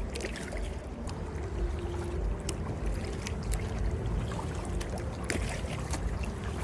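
Kayak paddling: paddle strokes splashing and dripping in the river, with scattered small clicks and knocks, over a steady low rumble.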